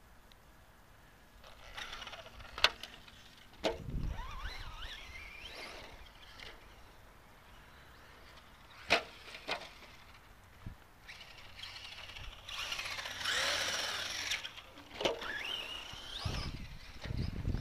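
A Team Associated RC stadium truck running on the track, its motor whine rising and falling in pitch as it speeds up and slows down, with several sharp clacks from the truck landing or hitting something and a few low thumps.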